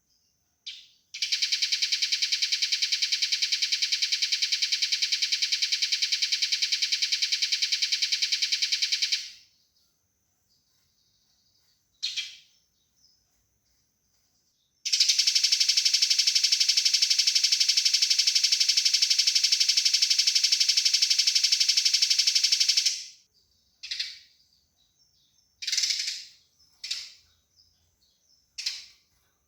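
Eurasian tree sparrow fighting calls: two long runs of fast, tightly spaced rattling chatter, each about eight seconds, with single short chirps before, between and after.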